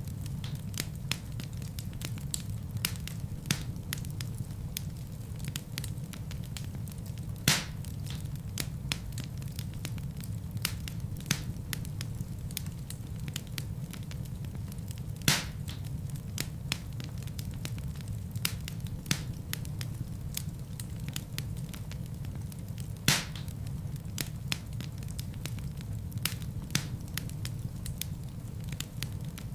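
Wood fire burning in a fireplace: a steady low rumble of flame with irregular crackles and sharp pops from the burning logs, the loudest pops coming about every seven to eight seconds.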